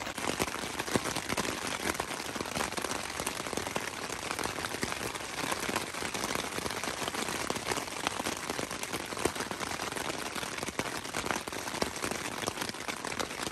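Rain falling on a tent, heard from inside: a steady hiss dotted with many small drop ticks.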